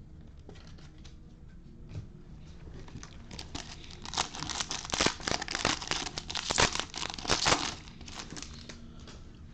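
A Bowman baseball card pack's wrapper being torn open and crinkled: a dense run of crackling and tearing that starts about three seconds in and lasts about four seconds.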